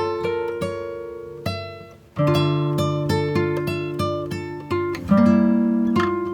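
Background music: acoustic guitar picking notes and chords. The notes die away almost to nothing about two seconds in, then a new phrase starts.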